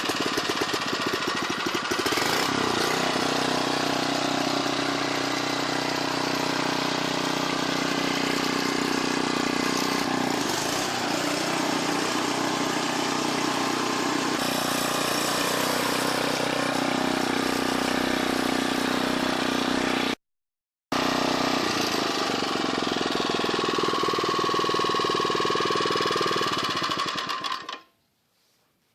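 Predator 79cc OHV single-cylinder gas engine on a McLane reel mower running steadily just after being pull-started. The sound breaks off for under a second about two-thirds through, then stops abruptly near the end.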